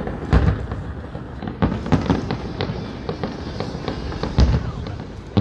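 Fireworks display: a steady rumble of aerial shell bursts with a run of sharp bangs and crackles, the loudest booms about half a second in and again near the end.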